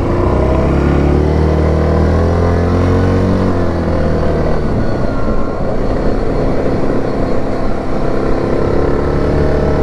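Single-cylinder engine of a Yamaha Grizzly 700 ATV running under way on a trail, its pitch sagging and rising again a few seconds in as the throttle changes.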